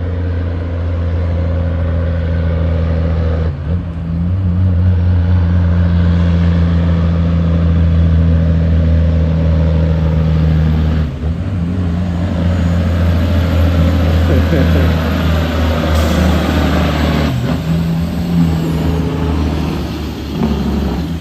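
Heavy truck's diesel engine running under load, a deep steady drone that drops out briefly twice, about three and a half and eleven seconds in, with a short sharp sound about sixteen seconds in.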